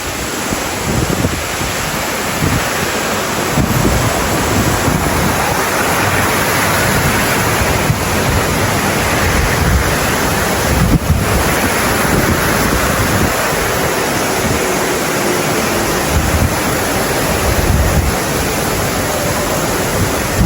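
Heavy rain pouring down, with strong gusting wind buffeting the microphone.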